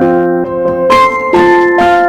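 Electric piano music: a melody over sustained chords, with the notes changing about every half second.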